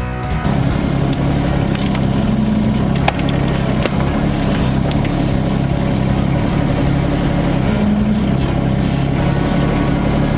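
Yanmar Vio 25 mini excavator's three-cylinder diesel engine running steadily while digging out a stump, its pitch lifting briefly a couple of times under hydraulic load, with a few faint knocks.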